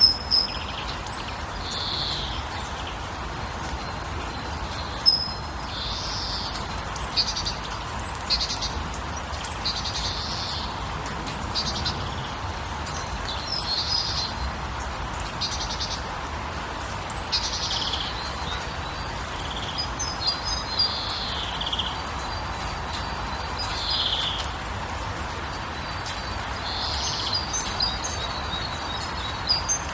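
Birds calling repeatedly, short calls every second or two, with quick trills of chirps about two-thirds of the way through and near the end, over a steady background hiss.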